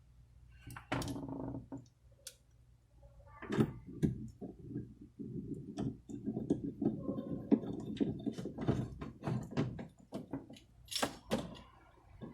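Hands working on a car door: a run of knocks, clicks and rattling of parts, densest in the middle, with a few sharper knocks.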